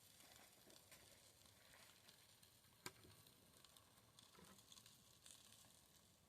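Faint campfire crackling, scattered small pops with one sharper pop about three seconds in.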